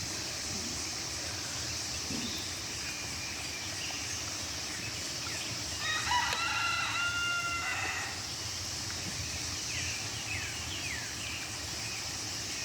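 A rooster crows once, about six seconds in, for about two seconds. Under it runs a steady high-pitched cicada chorus, with a few short bird chirps near the end.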